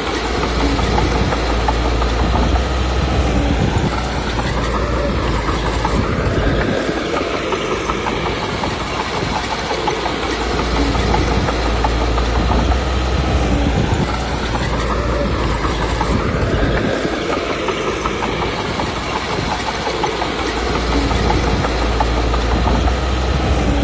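Komatsu D21P small crawler bulldozer working: its diesel engine running under load with the steel tracks clattering, the engine note rising and falling in a cycle that repeats about every ten seconds.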